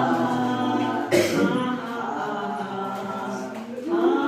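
Group of voices singing a Hindi film song together without accompaniment, a woman's voice leading the students, with new phrases starting about a second in and again near the end.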